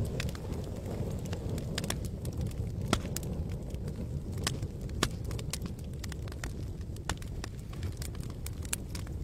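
Wood campfire crackling, with frequent irregular sharp pops and snaps over a steady low rush.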